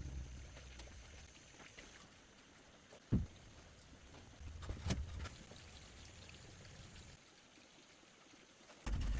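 Low rumbling noise with two sharp knocks, one about three seconds in and one about five seconds in; the noise cuts out about seven seconds in.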